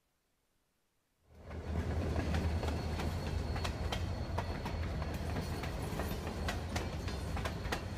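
A freight train rolls past close by after about a second of silence: a steady rumble, rapid clicking of wheels over rail joints, and a faint high whine above it.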